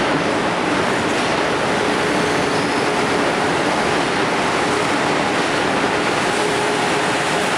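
Amtrak Acela Express electric train running, a steady rumble with faint humming tones in it.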